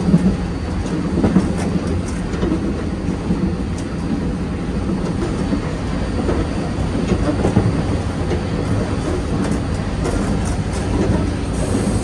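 An EMU1200 electric multiple unit running at speed, heard from inside the vestibule by the gangway between cars. The rumble of wheels on rail is steady, with occasional faint clicks.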